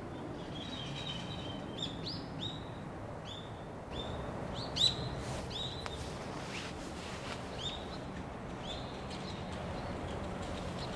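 Common kingfisher calling: a long series of short, high, shrill whistled notes, about two a second, over a steady low background rumble.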